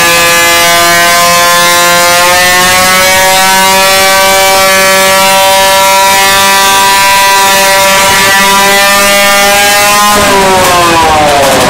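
Motorcycle engine held at high revs, its pitch steady and creeping slightly upward, then the revs fall off sharply near the end.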